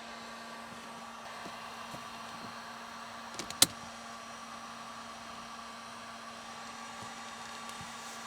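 A steady electric motor hum with a constant pitch over a hiss, like a small blower, and one sharp click about three and a half seconds in.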